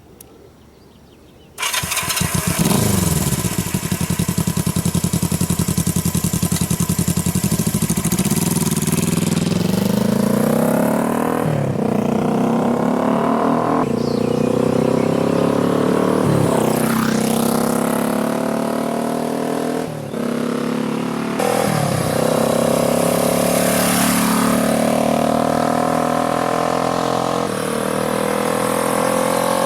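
1973 Honda CL350's parallel-twin engine starting about a second and a half in and idling, then pulling away and revving up through the gears, the pitch climbing in each gear and dropping at each of several shifts.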